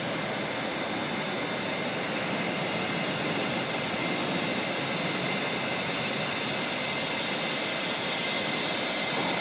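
ScotRail multiple-unit passenger train rolling slowly past along a station platform: a steady rumble of wheels and running gear, with a faint high steady whine above it.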